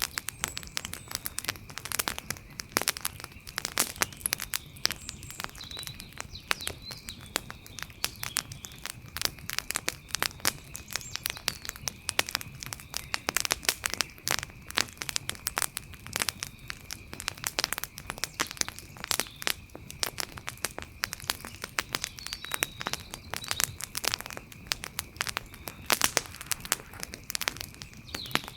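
Wood campfire crackling, with dense, irregular snaps and pops of burning wood and a faint steady high tone beneath.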